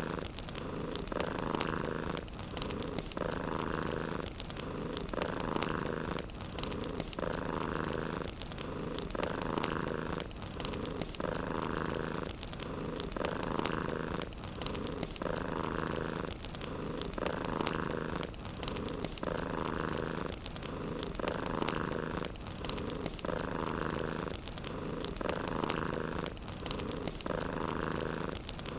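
Domestic cat purring steadily, the purr swelling and easing about once every second and a half with its breathing, over the constant fine crackle of a wood fire.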